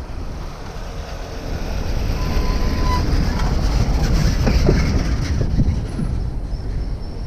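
Wind rumbling on the microphone, with a rail vehicle passing close by: the sound swells over the first two seconds to a peak of rapid clattering about four to five seconds in, with a few brief high squeals, then eases off.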